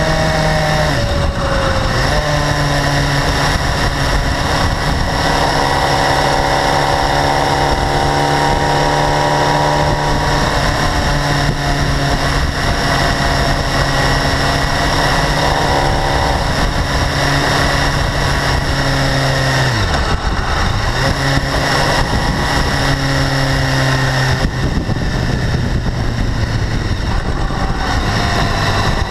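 A BMW S1000RR's inline-four engine running steadily, its speed dipping briefly and picking up again about twenty seconds in. It carries a high-frequency ticking that the owner suspects is valve clearance or the exhaust interference-pipe flaps.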